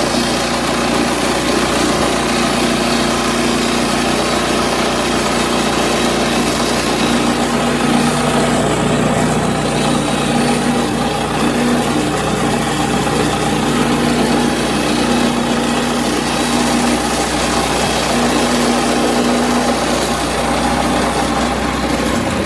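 Small gasoline engine of a Woodland Mills HM122 portable bandsaw mill running steadily as the band blade saws lumber.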